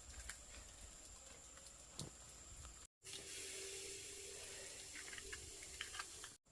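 Running water: a steady hiss that starts abruptly about three seconds in and cuts off just before the end, with scattered small clicks before it.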